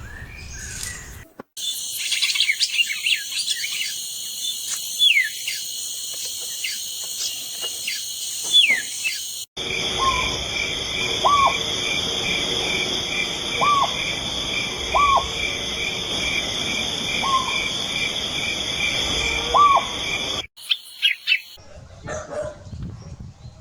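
Birds giving short, repeated calls over a steady insect chorus, in a few spliced clips that cut abruptly from one to the next.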